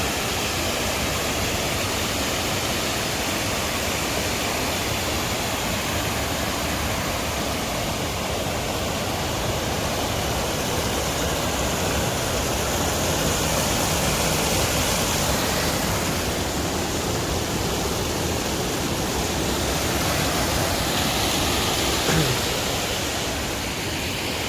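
Creek water rushing steadily, a continuous even noise.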